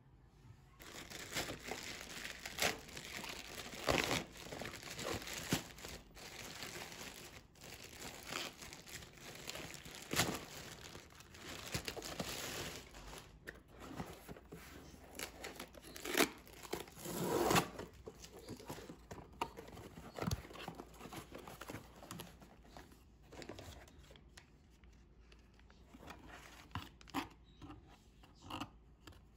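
Crinkling and rustling of handled material, irregular and busy for most of the time with a few louder crackles, thinning out to scattered clicks and rustles near the end.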